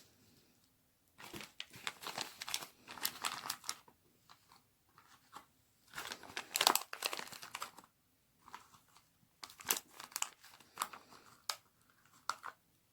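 Dry white baby soap being cut with a knife, crunching and crackling in three bouts of dense crisp clicks with short pauses between.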